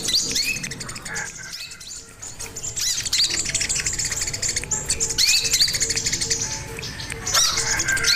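Olive-backed sunbird (sogon) singing a fast, busy song of high chirps and sweeping twitters, with a short lull about two seconds in. A faint low tone pulses about twice a second underneath.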